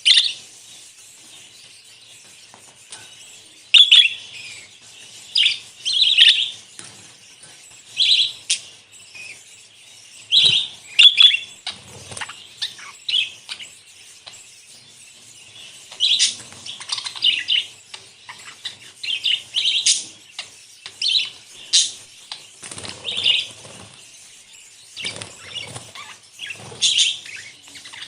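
A flock of budgerigars chattering and chirping, with frequent sharp, high chirps over a constant softer warble, and now and then wings flapping.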